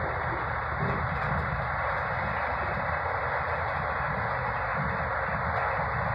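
Vande Bharat Express train running at speed, heard from on board: a steady rushing noise over a low rumble.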